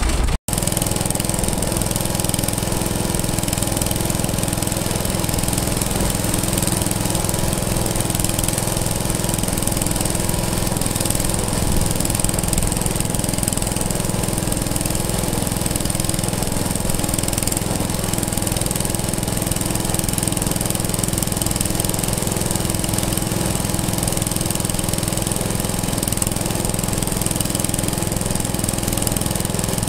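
An antique engine running steadily at an even speed, with a brief dropout just after the start.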